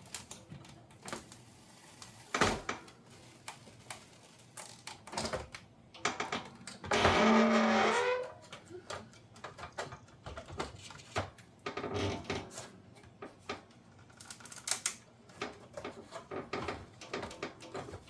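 Clicks, taps and knocks of plastic dishwasher door parts being handled and pried at, with one louder scraping sound lasting about a second, about seven seconds in.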